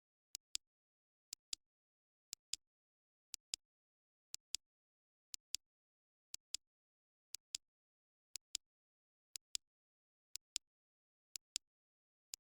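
Clock-style timer ticking: a pair of sharp clicks once a second, tick then a louder tock, steady and even, with silence between.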